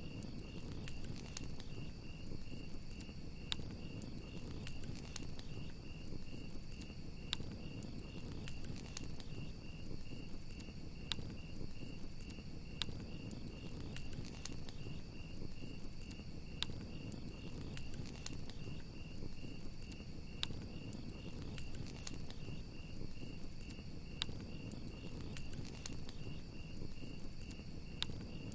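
Campfire crackling, with scattered sharp pops over a low steady rumble, while crickets chirp in a continuous rapid high-pitched trill.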